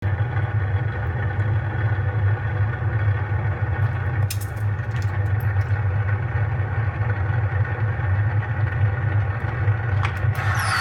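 Simulated engine sound from a faux engine prop: a steady low idling rumble with a few sharp clicks. Right at the end a high whine begins to fall in pitch as the shutdown sequence starts.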